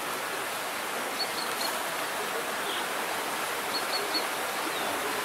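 Steady outdoor rushing noise with no speech, with two faint sets of three short high peeps about a second and about three and a half seconds in.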